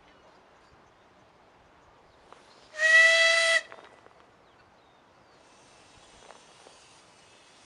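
Miniature railway steam locomotive whistle giving one short blast of under a second, a steady pitched tone with a breathy hiss.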